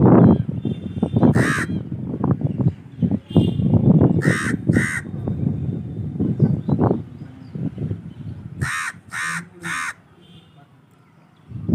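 Crow cawing in short series: a single caw, then two, then three in quick succession. Underneath runs a low rumbling noise, loudest in the first half, that dies down near the end.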